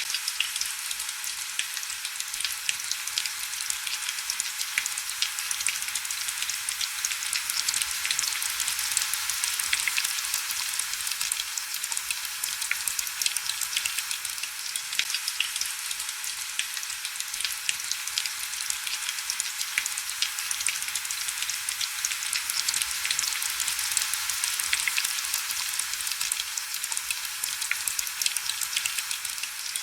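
Heavy rain falling steadily: a dense, even hiss thick with tiny drop clicks, with almost no low rumble.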